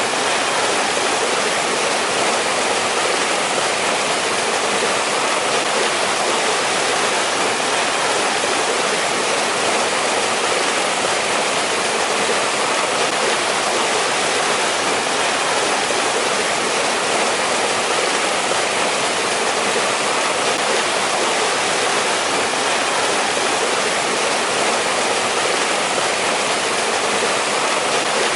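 A mountain stream rushing over rocks, a steady unbroken splashing flow.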